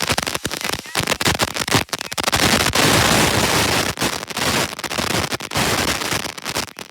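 Rapid string of sharp pops and crackles that thickens into a dense crackle in the middle, then thins out to scattered pops near the end.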